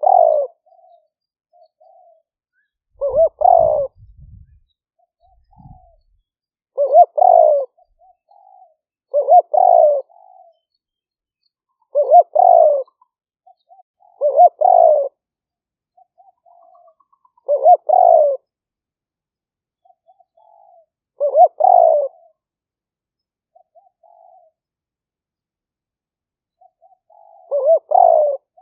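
Spotted dove cooing over and over: a phrased coo about every two to four seconds, about nine in all, with soft short notes between the calls. It is a live decoy bird giving the continuous coo-and-crow calling used to lure wild spotted doves.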